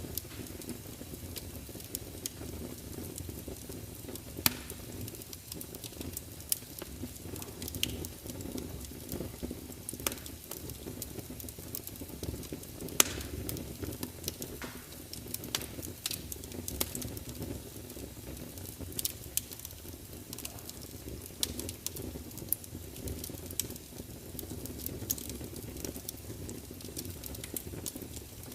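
Wood fire burning in a large open fireplace: a steady low rumble of flames with irregular sharp crackles and pops from the burning logs, the loudest pop about halfway through.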